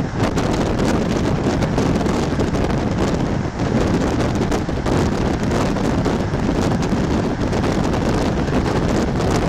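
Steady rumble of a moving passenger train heard from on board, with wind buffeting the microphone.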